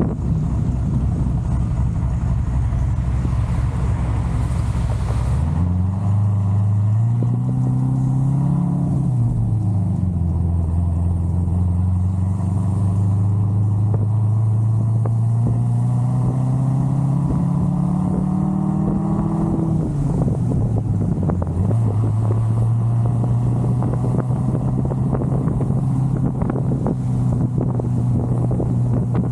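Big-cam LS7 V8 of a C6 Corvette Z06 accelerating through the gears: the engine note rises, drops at a shift about nine seconds in, climbs steadily until about twenty seconds in, drops again, then holds a steady cruising note.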